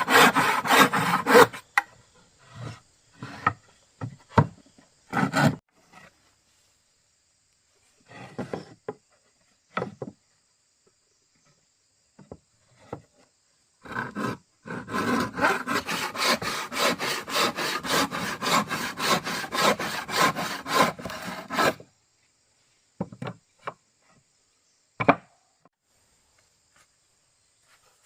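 A hand tool worked back and forth on wood in fast, even strokes, about four a second: a long run in the middle, with short runs and single strokes before and after.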